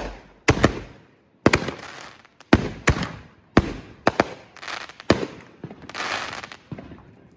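Consumer fireworks going off: a run of sharp bangs, about two a second, each trailing off, then a hissing crackle about six seconds in that dies away.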